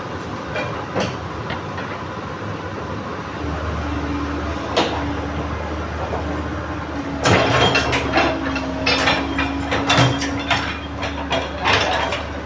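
Komatsu PC130 excavator running, its steady low drone picking up about three and a half seconds in, with scattered knocks and then, from just past halfway, a quick run of sharp metal clanks from the steel track being worked off.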